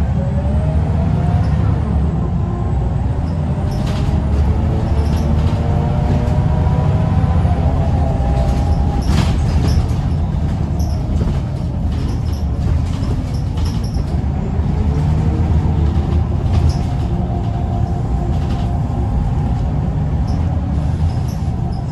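Scania L94UB bus's five-cylinder diesel engine running hard under load, its pitch rising and falling as it pulls through the gears, with scattered rattles and a short sharp hiss about nine seconds in.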